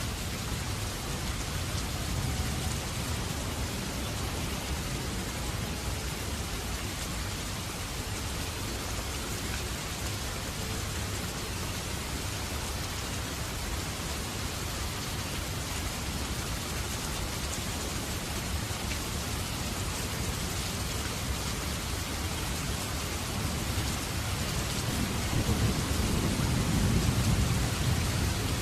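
Steady rain falling, with a low roll of thunder swelling near the end.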